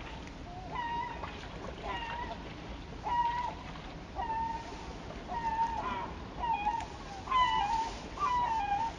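A bird calling over and over: short, clear, slightly falling notes about once a second. They grow louder and more frequent toward the end, with a second voice overlapping, over a faint steady river hiss.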